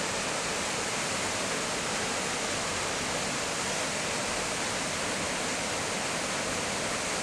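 Steady rushing of water pouring over a small waterfall.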